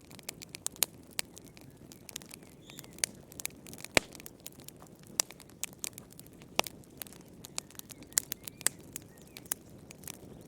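Fire in a fireplace crackling: irregular sharp pops and snaps, several a second, over a soft low hiss of burning, with the loudest pop about four seconds in.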